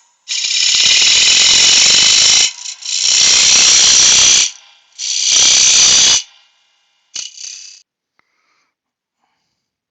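A turning tool cutting spalted beech on a spinning lathe: three cuts of one to two seconds each, a high, steady scraping hiss, then a short fourth touch near the end.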